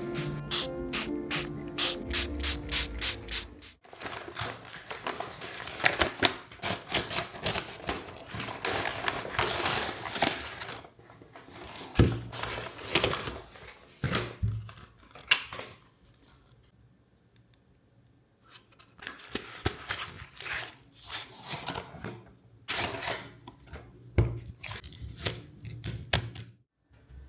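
A steady pitched hum with fast, even ticking, which cuts off suddenly after a few seconds. Then a long run of clicks, knocks and rustles from things being handled, with a quiet pause about halfway through.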